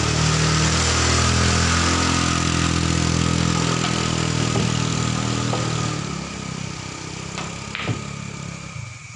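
A motor engine running steadily, loudest for the first few seconds and then fading away. A single sharp click comes near the end.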